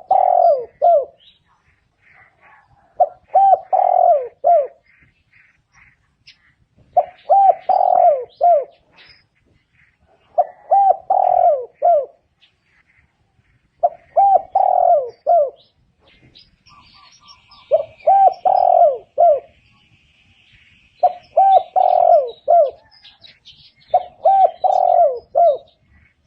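Spotted dove cooing its song: phrases of several low coos, each phrase about a second and a half long, repeated roughly every three and a half seconds, eight times over.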